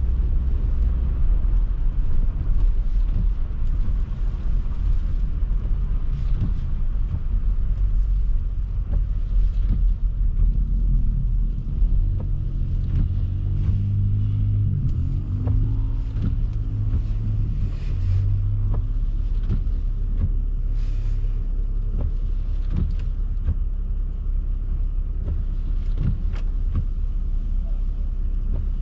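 Car driving on a snowy street: a steady low rumble of engine and road noise, with a low engine hum that comes up for several seconds in the middle.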